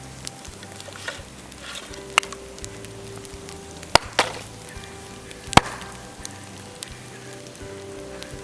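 Dry bamboo cracking, with a few sharp, loud cracks over a light crackle, under soft background music.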